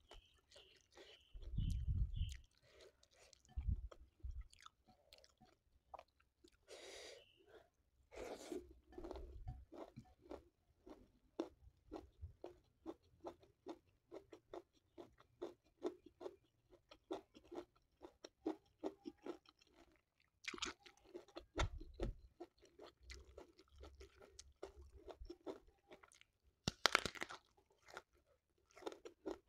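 Close-up chewing with crisp crunches, about three chews a second, from a mouthful of rice with salted fish and raw green eggplant. A few louder crunchy bites stand out, one near the end.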